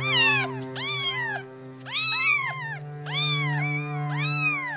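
Kitten mewing: five short high calls about a second apart, each rising then falling in pitch, over sustained background music notes.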